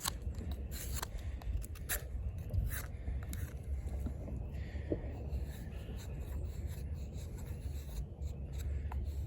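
Eafengrow EF-143 fixed-blade knife shaving bark off a small log: light scraping with scattered small clicks.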